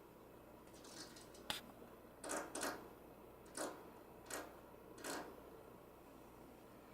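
Small bird pecking at a window pane: about six sharp taps on the glass at uneven intervals, two of them in quick succession.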